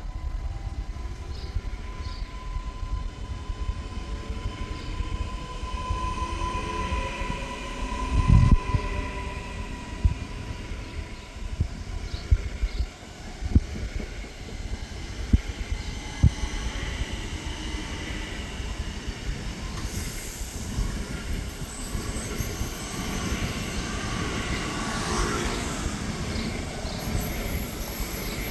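Train running along the tracks through a station, with a steady low rumble throughout. A steady high tone sounds for the first third or so, and a few sharp knocks come in the middle.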